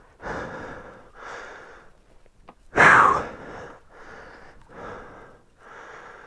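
A person breathing hard, about one heavy breath a second, winded from pushing a motorcycle through a river. One breath about three seconds in is much louder and harsher than the rest.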